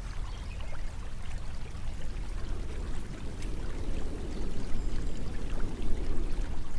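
Flowing water running steadily, a low rushing with scattered small splashes that swells a little past the middle.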